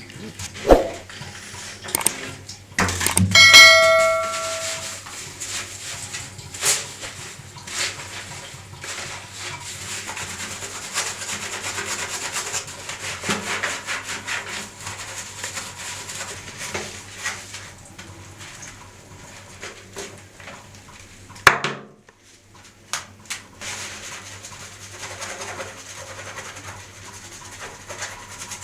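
Hand cleaning of a dirty horn: a bell-like metallic ring about three seconds in that dies away, then long stretches of rubbing and scrubbing with scattered sharp clicks and knocks, one loud click a little past twenty seconds in.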